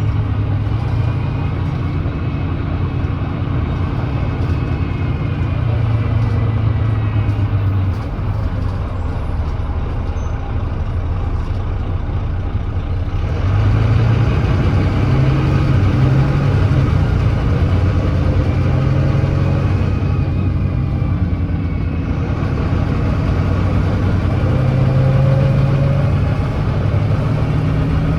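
Volvo D9B 9.3-litre six-cylinder diesel of a Volvo B9TL double-decker bus running as the bus drives, with a known exhaust leak. The engine note climbs a couple of times as the bus accelerates.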